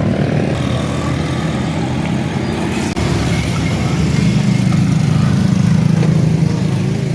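An engine running steadily, growing somewhat louder about three to four seconds in.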